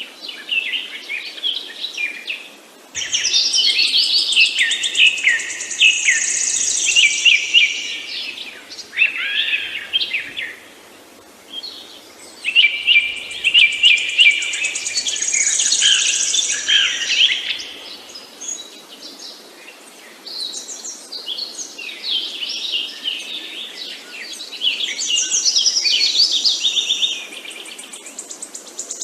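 Songbirds chirping and singing, with several songs overlapping in busy bursts of a few seconds and quieter gaps between, over a faint steady background hiss.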